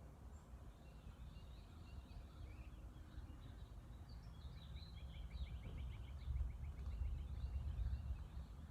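Wild birds calling, with scattered chirps and then a fast run of short, evenly repeated notes in the second half. A low rumble swells underneath near the end.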